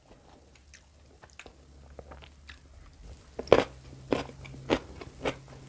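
A person biting into raw young jengkol and chewing it close to the microphone, with crunches about every half second from about three and a half seconds in. Faint clicks come before the crunching starts.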